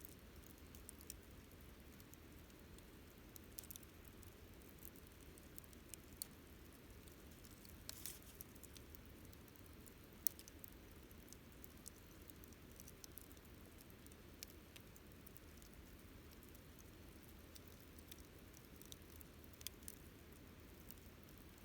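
Wood campfire crackling faintly: scattered sharp pops and snaps at irregular intervals, one louder pop about ten seconds in, over a low steady hiss.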